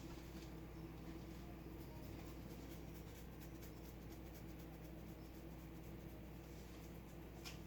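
Light rain dripping: faint, irregular ticks of drops over a steady low hum.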